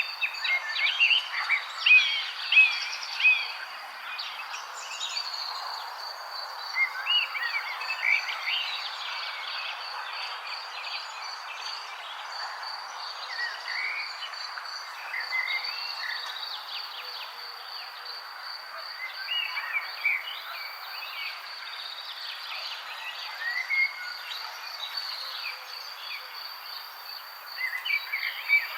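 Birds chirping in scattered clusters of short calls over a steady, fast-pulsing insect trill, with a constant background hiss.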